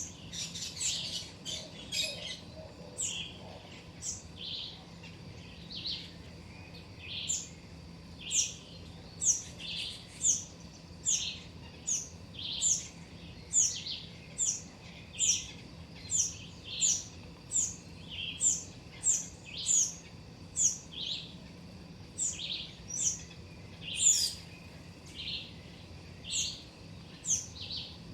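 A small bird calling over and over with short, high chirps, a little more than one a second, in an even run. A denser burst of chirps comes in the first few seconds.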